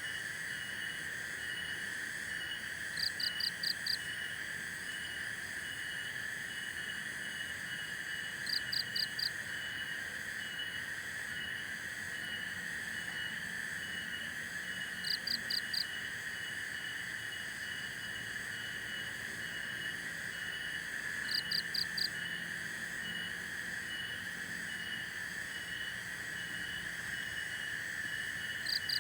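Forest ambience: a steady high-pitched drone with a quick, even pulsing tone above it, and a short call of four rapid notes that repeats about every six seconds.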